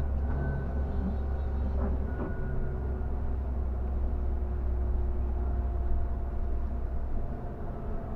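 Scania K360 bus heard from inside the cab while driving: a steady low engine drone with a faint whine above it. The drone drops away about seven and a half seconds in.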